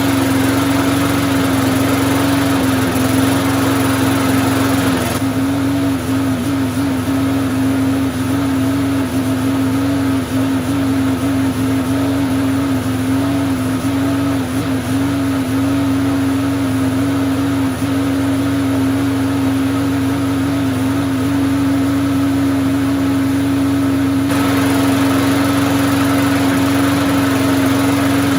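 MTD Yard Works walk-behind lawn mower's small engine running at a steady speed. Its pitch wavers slightly now and then, and it cuts off at the end.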